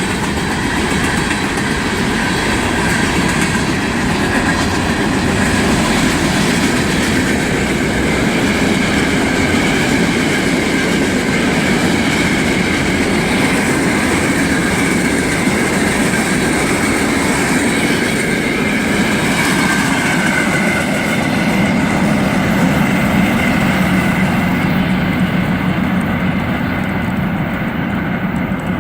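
Freight train rolling past at speed, its cars' steel wheels making a loud, steady rumble on the rails with a faint high squeal over it; the highest part of the sound thins out near the end.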